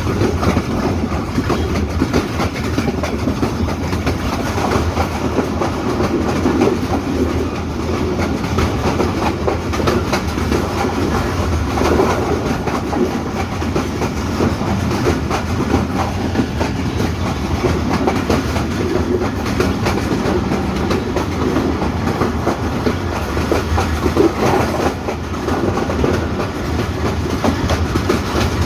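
Hazara Express passenger train running along the track: a steady, continuous noise of wheels on the rails and the moving coaches.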